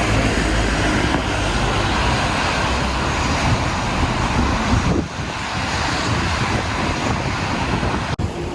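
Steady outdoor city noise: a broad low rumble with hiss, with a brief drop about five seconds in and a sudden break near the end.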